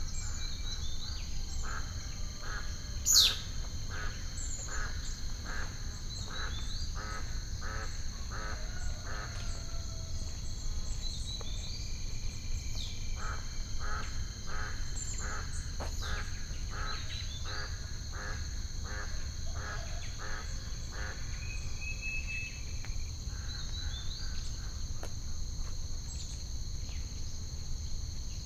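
Nature ambience of birds and insects: birds chirping and calling over a steady high insect drone, with one loud, sharply falling bird call about three seconds in. A low rumble runs underneath.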